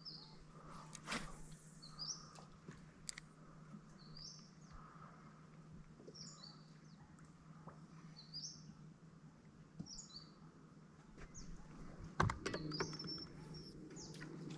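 Birds chirping outdoors, short high calls repeated every second or two over a steady low hum. A few sharp clicks and knocks, the loudest a knock near the end.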